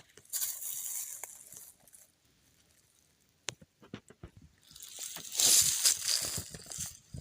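Forest-floor soil and leaf litter rustling and crunching as it is disturbed, in two bouts: a short one at the start and a louder one in the second half. A few sharp clicks fall in the quiet pause between them.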